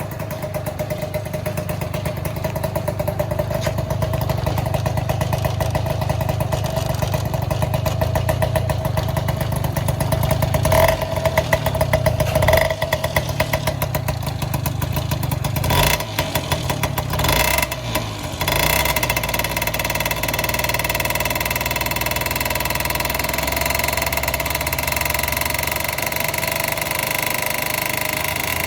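Honda Joker 90 scooter's single-cylinder engine running through an aftermarket muffler: a steady idle, blipped several times about halfway through, then settling into a steady, higher-pitched running for the last third.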